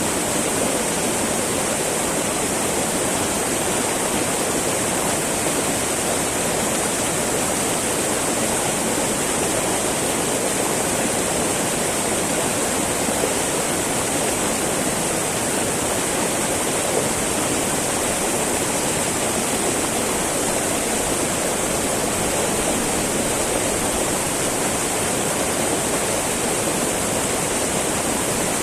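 Small mountain river babbling over rocks: a steady, even rush of flowing water with no change throughout.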